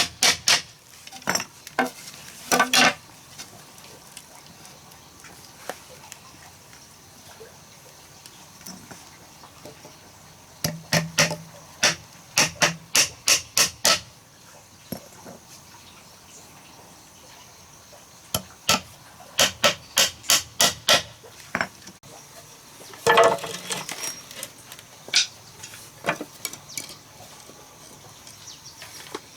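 Hammering in quick runs of sharp strikes, about four a second, with pauses of several seconds between the runs.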